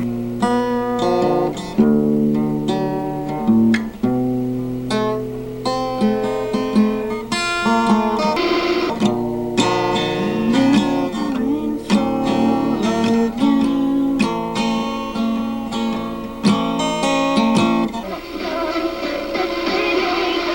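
Music: an acoustic guitar strumming chords, with sharp strokes and ringing notes changing every second or so.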